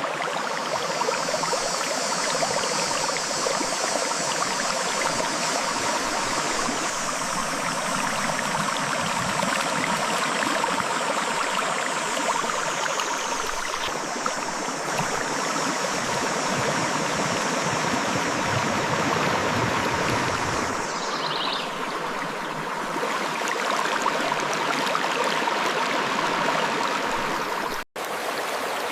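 A river flowing over rocks: steady rushing and gurgling water. It cuts out for an instant near the end.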